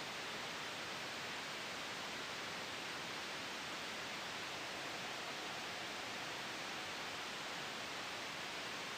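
Soft white noise for sleep: a steady, even hiss with no gusts or changes.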